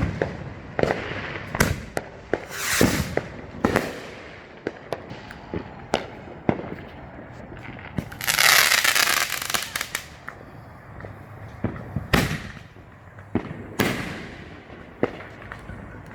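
Neighbourhood consumer fireworks going off: scattered bangs and sharp firecracker pops throughout, with a loud hissing crackle about eight seconds in that lasts about two seconds.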